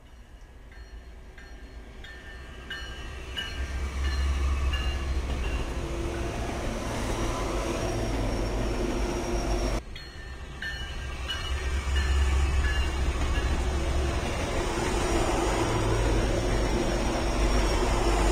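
A train approaching on the rails, its low rumble and rolling noise building from faint to loud. It cuts off suddenly about ten seconds in, then a second train's rumble builds up again in the same way.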